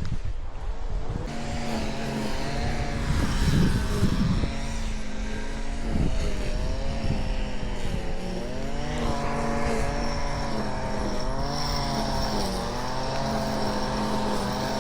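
A small gas engine of yard-work equipment running steadily, its pitch wavering up and down, with a faint high whine above it.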